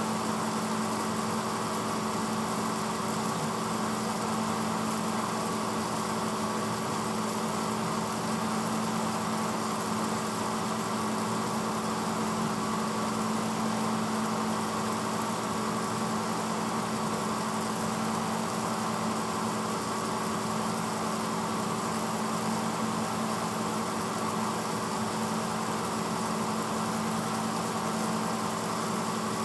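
1986 Hotpoint Potwasher dishwasher running mid-cycle: a steady motor hum over an even hiss that holds unchanged throughout.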